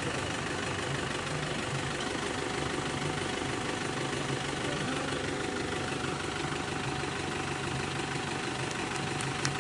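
Diesel off-road 4x4 engine idling steadily.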